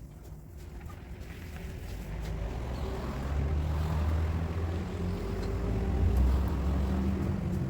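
A low engine or motor hum that grows louder over the first three seconds, then holds steady.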